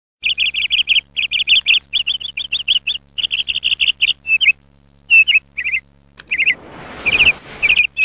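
A small bird chirping in quick runs of rapid, high notes, with short pauses between the runs. A rushing hiss swells up and fades about seven seconds in.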